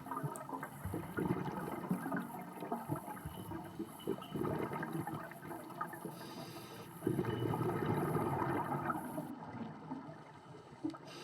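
Underwater ambience as heard by the camera: steady gurgling water noise with many small irregular clicks and crackles. A louder low rush of bubbling water comes about seven seconds in and fades over the next two seconds.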